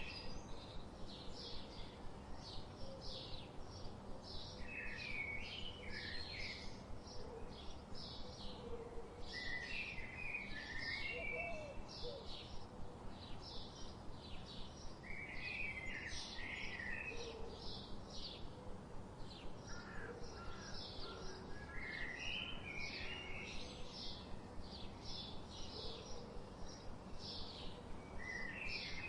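Songbirds chirping: a steady run of short, high chirps, several a second, with a lower warbling phrase that comes back every five or six seconds, over a steady background hiss.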